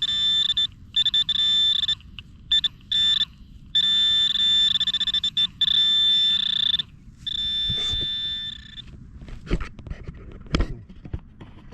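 Handheld metal-detecting pinpointer buzzing with a steady high tone that cuts in and out in irregular bursts as it is swept over a buried target in the hole. The buzzing stops about nine seconds in, followed by a few short knocks.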